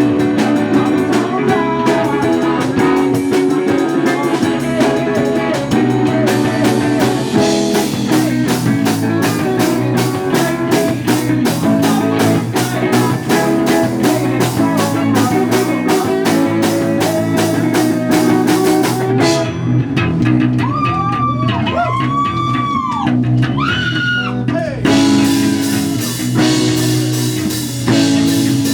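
Live rock band playing: electric guitar over bass and a drum kit keeping a steady beat. Past the middle the drums drop out for several seconds, leaving a few bending, gliding notes, before the full band comes back in near the end.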